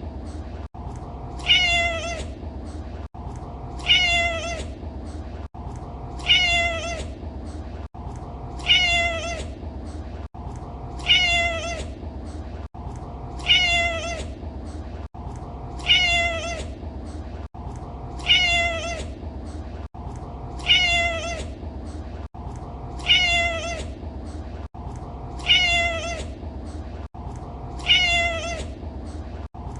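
Domestic cat meowing: the same short meow repeats about every two and a half seconds, about twelve times, over a steady low hum.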